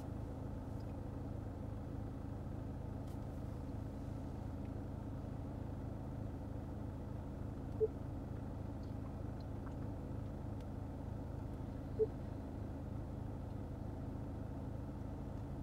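A Subaru flat-four boxer engine idling steadily with a low hum. Two short electronic beeps come partway through, about four seconds apart.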